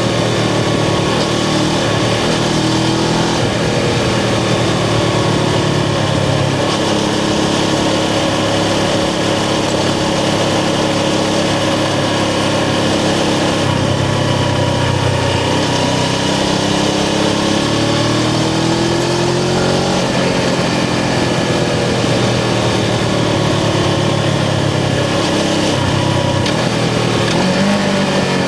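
Suzuki GS500's air-cooled parallel-twin engine running under way as the motorcycle is ridden, its pitch rising and falling several times with the throttle.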